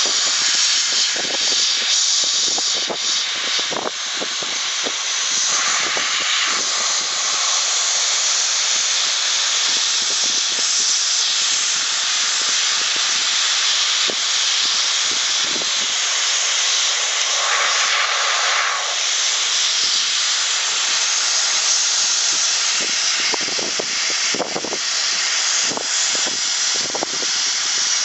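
Central Pneumatic #95793 gravity-feed sandblasting gun blasting without a break: a loud, steady hiss of compressed air and abrasive, with a brief change in tone twice. The gun is feeding its media slowly, which the owner calls "so slow".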